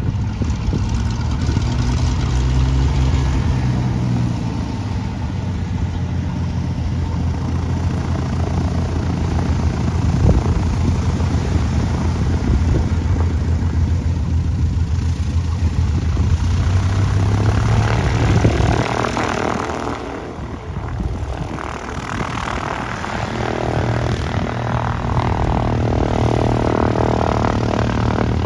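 A light single-engine piston propeller airplane's engine running steadily. It drops off briefly about twenty seconds in, then builds again.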